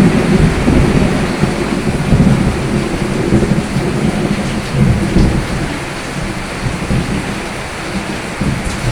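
Steady rain with a rolling thunder rumble that is loudest at the start and slowly dies away.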